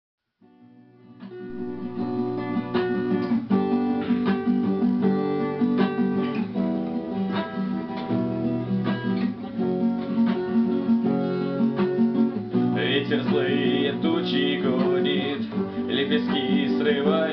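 Acoustic guitar strumming the opening chords of a song intro, fading in over the first couple of seconds. About thirteen seconds in, a higher wavering melody joins over the chords.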